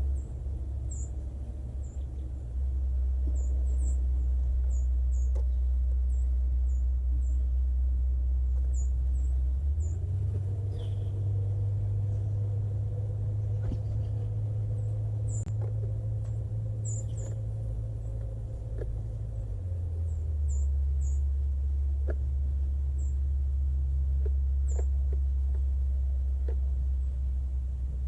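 Small birds giving many short, high chirps over a loud, steady low rumble. The rumble shifts to a higher pitch about ten seconds in and drops back near twenty seconds.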